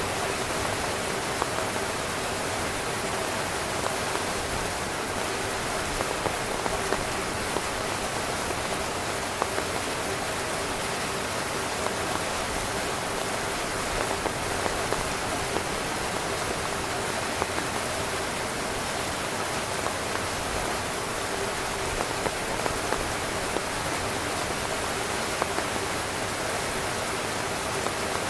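Heavy rain drumming on a tent: a dense steady hiss of rain with many sharp individual drop taps on the fabric.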